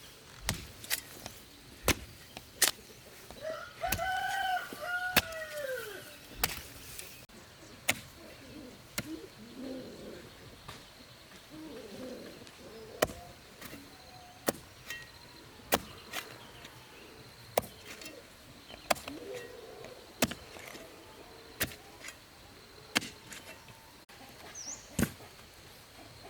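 A rooster crows once, one long arched call about four seconds in, with fainter fowl sounds later. Sharp, short knocks come every second or two throughout.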